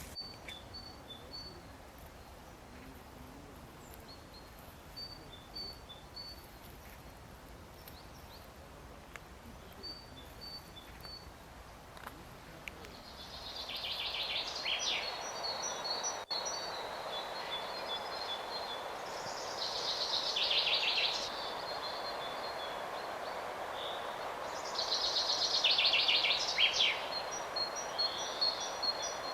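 Small birds calling: short high pips in quick series, and from about halfway loud buzzy trills that come about every six seconds, over a steady rushing background noise that grows louder about halfway through.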